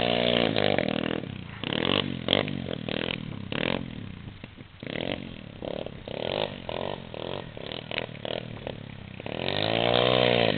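125 cc pit bike engine revving in short, repeated throttle blips, its pitch rising and falling. A longer rev climbs and drops back near the end.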